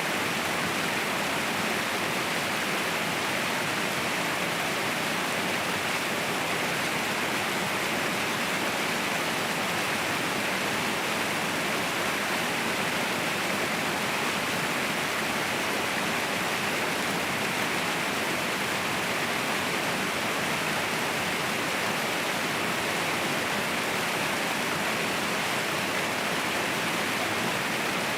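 Waterfall cascading: a steady, dense rush of falling water with no breaks or changes.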